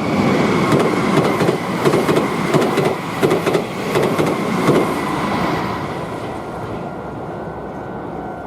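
Meitetsu electric train passing over the level crossing, its wheels clattering over the rail joints in a rhythmic clickety-clack about every 0.7 s. The clatter stops after about five seconds and the running noise fades away.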